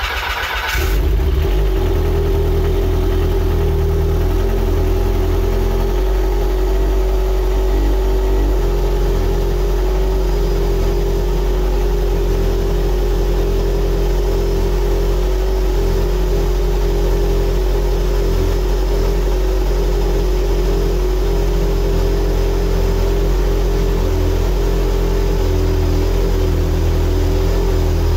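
A freshly built stroker race engine, just fired for the first time, settles from its start flare in the first second into a steady cold idle.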